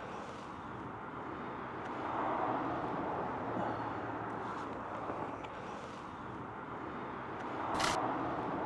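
Road traffic: cars passing by on a road, the tyre and engine noise swelling about two seconds in and again near the end.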